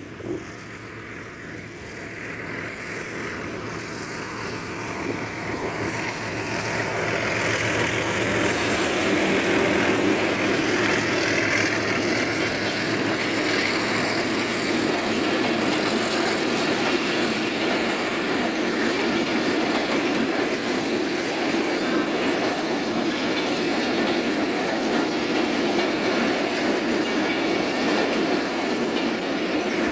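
A pair of Hitachi diesel-electric locomotives (PHA-20 and HBU-20) approach with their engines running, growing louder over the first several seconds. Then a long passenger train's coaches roll past with a steady rumble and wheel clatter on the rails.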